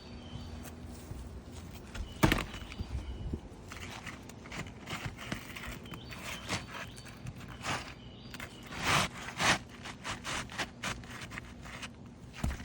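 Scattered knocks, taps and scrapes of a new asphalt shingle being handled and slid into place on a roof. There is a sharp knock about two seconds in and a run of louder clicks near nine seconds.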